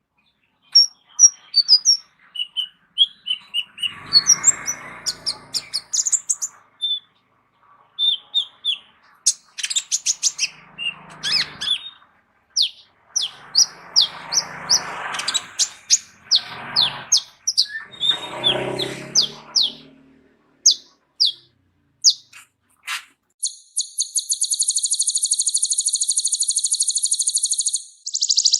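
Kolibri ninja sunbird singing a fast, varied song of high chirps and trilled notes, with several stretches of lower, noisier sound among them. Near the end the song gives way to a steady, buzzy high trill lasting several seconds.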